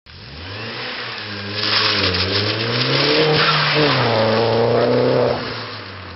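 Turbocharged four-cylinder engine of an R56 MINI Cooper S with an aftermarket Magnaflow exhaust and downpipe, accelerating past. The engine note climbs, dips and climbs again, loudest as the car goes by, then fades away after about five seconds.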